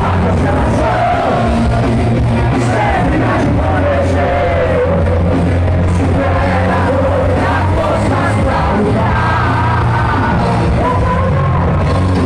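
Live heavy metal band playing loudly, with a singer's voice carrying the melody over the band.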